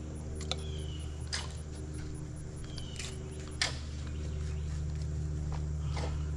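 An engine running steadily at an even speed, with a few light clicks and knocks over it.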